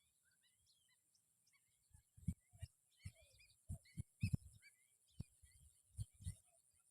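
A flock of small birds chirping and twittering, many short high calls overlapping, with about eight dull low thumps scattered through and a steady high-pitched hiss.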